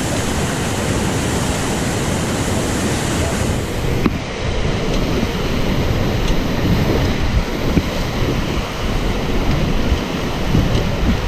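Rushing whitewater of river rapids, a steady roar with wind buffeting the microphone. The high hiss thins a little about four seconds in.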